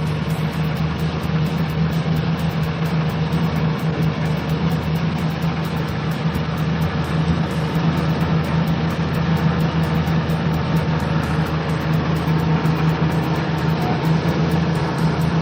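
A vehicle engine idling: a steady, unchanging low hum with an even rushing noise over it.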